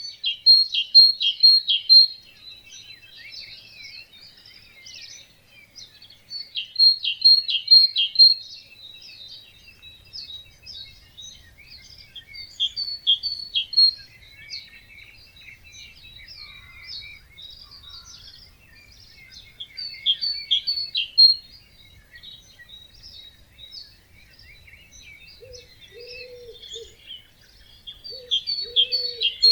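Dawn chorus of several birds singing at a wetland. One bird repeats a loud song of quick, repeated notes about every six to seven seconds over a steady chatter of other birds, and a low hooting call sounds twice near the end.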